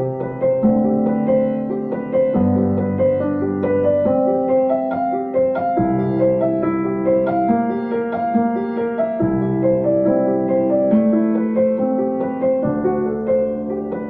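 Background piano music: a flowing line of notes over sustained bass notes that change every couple of seconds.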